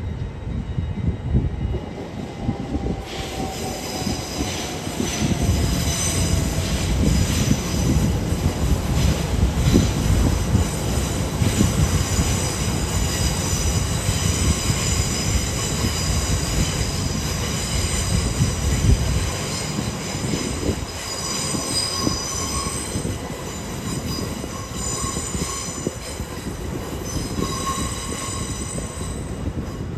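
A train running through the station with its wheels squealing on the rails. The high-pitched squeal starts about three seconds in and goes on most of the time, over a heavy rumble from the train that eases off after about twenty seconds.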